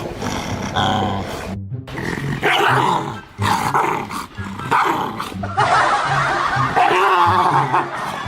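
A dog barking and growling in several bursts, the longest near the end.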